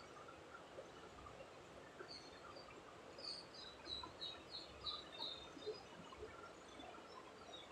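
Faint bird chirping: a run of short, high chirps, about three a second, through the middle, over quiet room tone.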